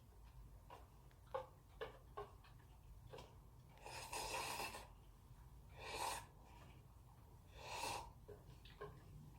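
A person eating cup noodles, quietly: scattered light clicks and mouth sounds, and three short breathy rushes of air, the first about a second long near the middle, the others around six and eight seconds in.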